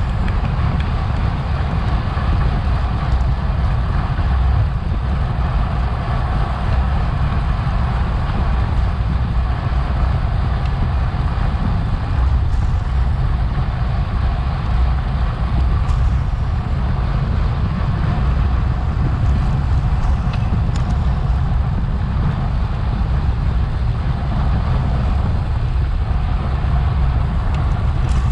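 Steady wind rush buffeting the microphone of a bike-mounted action camera while the bicycle races at speed, with a low road and tyre rumble underneath.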